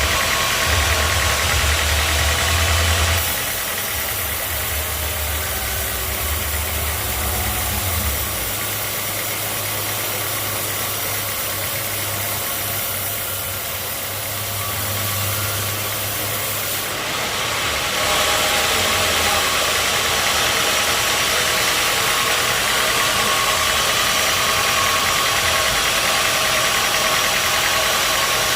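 Sawmill machinery running steadily, an engine-driven mechanical din. Its sound shifts abruptly about three seconds in and again a little after halfway.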